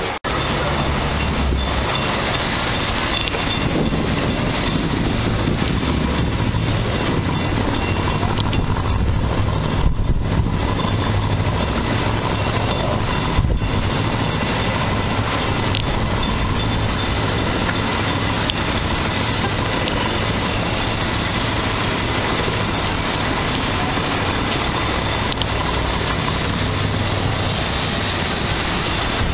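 Rhaetian Railway red train (the Bernina line's trenino rosso) running past with a steady rumble and a faint hum. Two brief knocks come near the middle.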